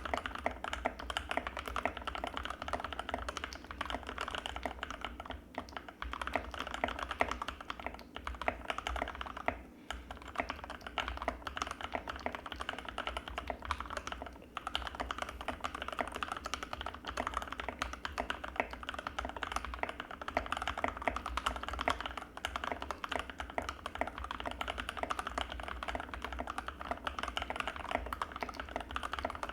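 Fast, continuous typing on an Anne Pro 2 mechanical keyboard with Gateron Red linear switches: a dense run of key clicks with a few brief pauses, over a steady low hum.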